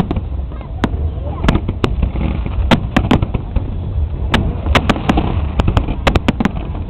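Aerial fireworks bursting: an irregular run of sharp bangs, a dozen or more, over a steady low rumble, with a crowd's voices faintly underneath.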